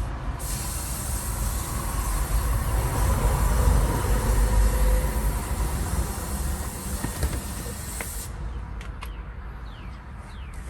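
Aerosol can of SEM black coating spraying in one long hiss of about eight seconds, laying a light coat onto a leather seat, then cut off sharply. A low rumble runs underneath.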